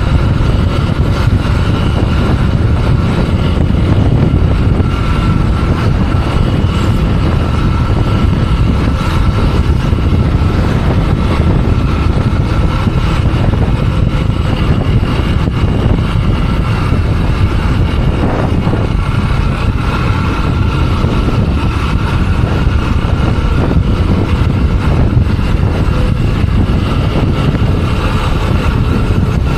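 Motorcycle on the move: a steady rush of wind on the microphone over the running engine.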